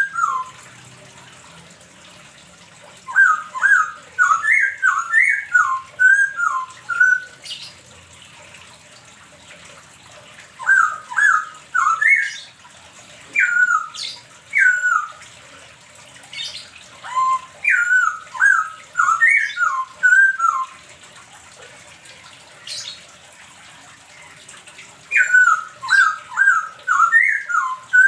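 A bird singing in bouts of clear whistled notes. Each note slurs down in pitch, several come a second, and the bouts last two to four seconds with short pauses between them.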